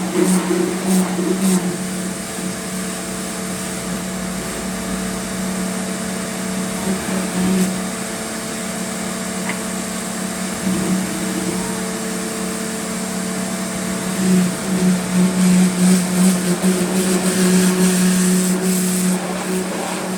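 A small electric motor running steadily, its hum holding one pitch while the level swells and dips, louder near the end.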